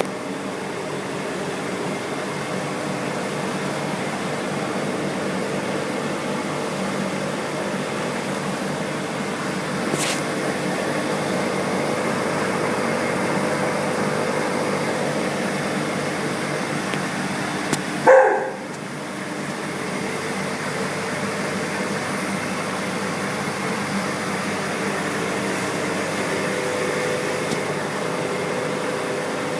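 Steady hum and hiss of aquarium pumps and filters. A dog barks once, briefly and loudly, a little past halfway.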